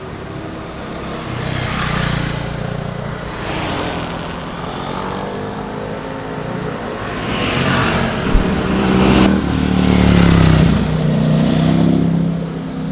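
Motorcycles passing on the road, engines revving, their pitch rising and falling and the sound swelling as each bike goes by, loudest about two seconds in and again in the second half.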